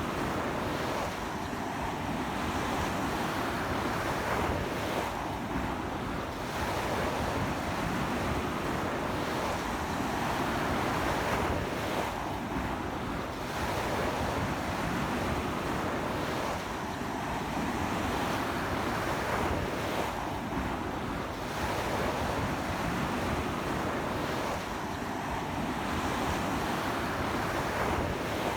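Ocean surf breaking and washing onto a sandy beach in a strong sea wind, a continuous rush that swells and eases every few seconds, with wind buffeting the microphone.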